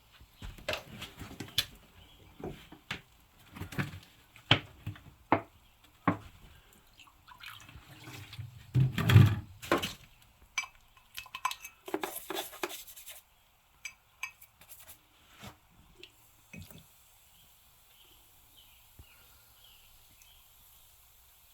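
Wet scrubbing, dripping and scattered clinks and knocks from cleaning corroded lead-acid battery terminals with baking soda and a toothbrush. The sounds are busiest in the first half, with the loudest burst about nine seconds in, then thin out to a few faint ticks.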